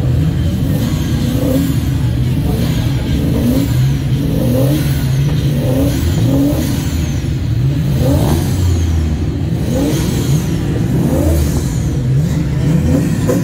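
TVR sports car engine revved in repeated short throttle blips, the pitch rising and falling back about once a second.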